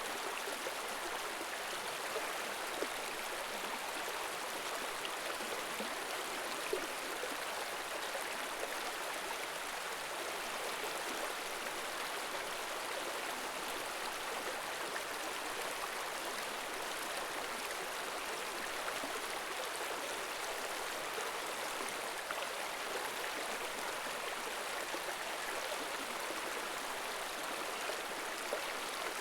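Stream in a tropical forest running steadily over rocks, a constant rushing hiss with a few small splashes.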